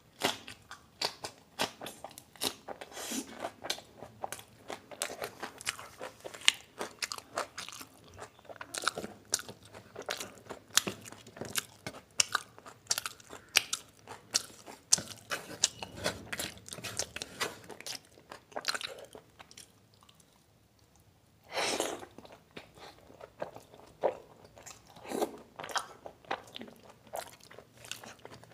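Close-up mouth sounds of a person crunching raw green chillies and chewing chicken liver curry: many short, wet crunches and smacks. They pause for about two seconds two-thirds of the way through, and then one brief louder noise comes before the chewing resumes.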